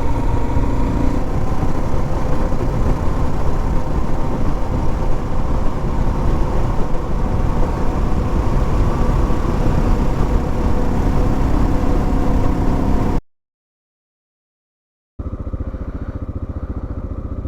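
Motorcycle engine and wind noise while riding. About thirteen seconds in the sound cuts out completely for two seconds, then a motorcycle engine resumes, a little quieter and with an even beat.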